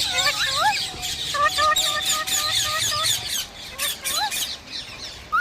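A flock of parrots chattering and squawking: many short calls overlapping, each sliding up or down in pitch.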